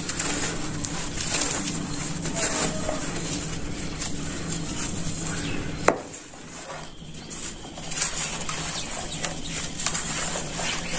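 Dry crumbly material crackling and crunching as it is broken apart, with one sharp click just before six seconds, after which it is briefly quieter before the crunching resumes.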